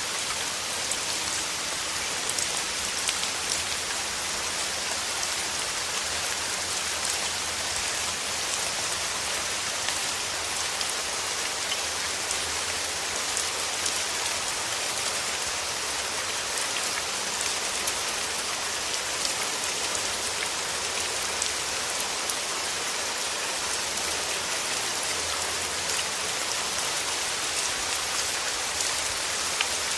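Steady rain falling, with a continuous hiss and many small distinct drop ticks.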